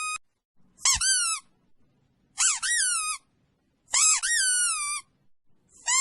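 A high-pitched squeaky call repeated four times. Each one swoops sharply up and down and then holds a steady, drawn-out pitch, with short silences between them.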